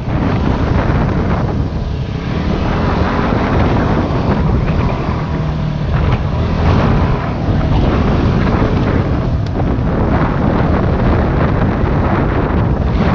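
Yamaha WR250R dual-sport dirt bike's single-cylinder four-stroke engine running on the move, with heavy wind noise buffeting the microphone.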